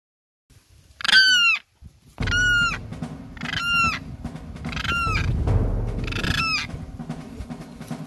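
A large bird calling five times, loud short calls spaced roughly a second apart, each rising at the start and then holding. Background music with a steady low bass comes in about two seconds in and runs under the calls.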